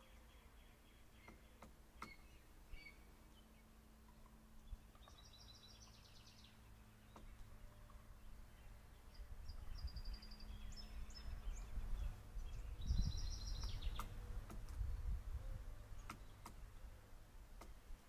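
Faint songbird calls: three short series of rapid, high repeated notes, over a low rumble that builds through the second half, with a few faint clicks.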